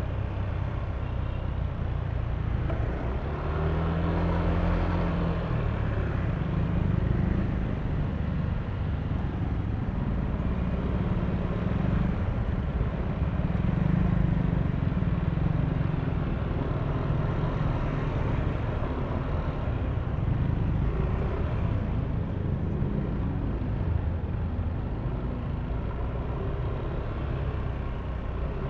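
Yamaha Aerox V3 scooter's single-cylinder engine running under way, its note rising and falling with the throttle a few times, over a steady bed of road noise.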